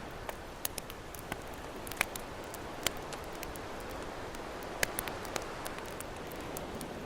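Campfire crackling, with sharp irregular pops several times over a few seconds, over a steady rush of ocean waves.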